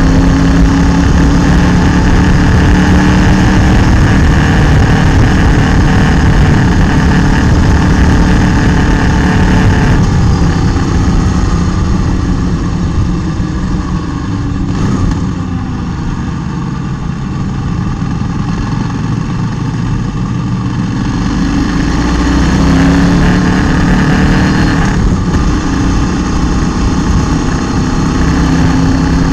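Motorcycle engine running under load, heard from a camera mounted on the bike's front end, over a steady rush of wind and road noise. About ten seconds in the engine note drops and falls away as the throttle is eased off, then it climbs back up and runs hard again a little past twenty seconds.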